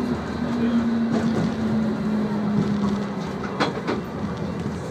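Light-rail tram running along the track, heard from inside: steady running noise with a low motor whine that sinks slightly in pitch, and two sharp clacks near the end.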